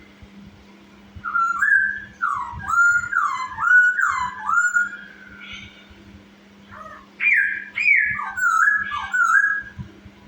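Masked laughingthrush (poksay Hongkong) singing in full voice: two loud phrases of rapid, sliding whistled notes, the first starting about a second in and the second about seven seconds in, with softer calls between them. A steady low hum runs underneath.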